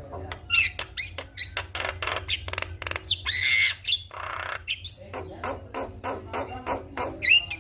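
Javan myna chattering: a fast run of sharp clicks and harsh, rasping squawks, broken by short rising whistles.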